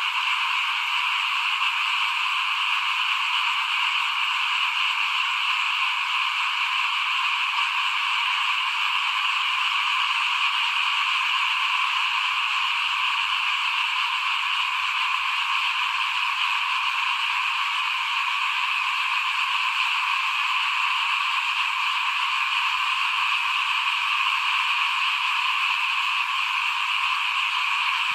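Dense chorus of many small frogs calling at once, merging into a steady, high, unbroken din.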